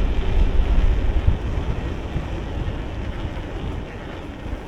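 Wind buffeting the microphone as a low, rough rumble during an e-bike ride, loudest in the first couple of seconds and easing off after that.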